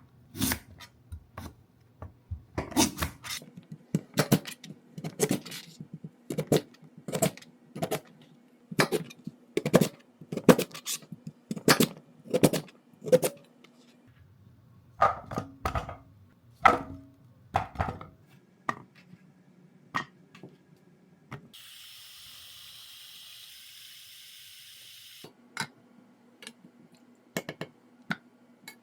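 Kitchen handling sounds: a long series of regular knocks and clinks, then running water for about four seconds past the middle, followed by a few light clicks.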